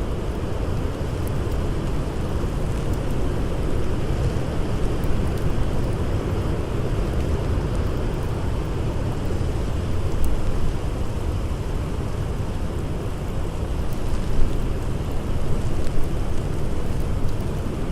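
Blizzard wind blowing steadily with a low rumble, under faint campfire crackling with a few louder pops in the second half.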